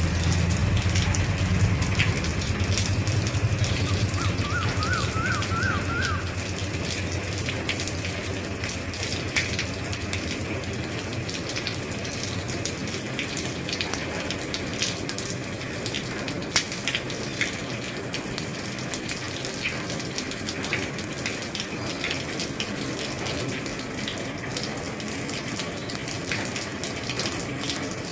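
Steady rain on an old roof, a continuous hiss with scattered drops ticking sharply. A low rumble in the first several seconds fades away, and a short run of five quick chirps sounds a few seconds in.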